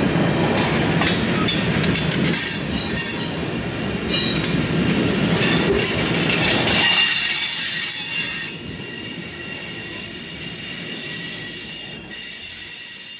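Freight train rolling past, its wheels squealing in several steady high tones over a low rumble. About eight and a half seconds in, the squeal and rumble drop away sharply, leaving a fainter rumble.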